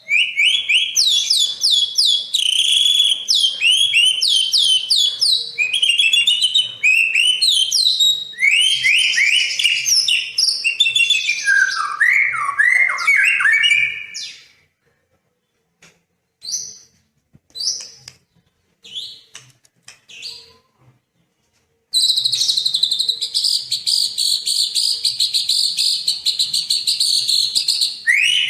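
Recorded song of a white-rumped shama and sekoci birds: rapid, varied whistled phrases, then a stretch of only a few isolated chirps, then a dense, steady, high twittering chatter in the last quarter.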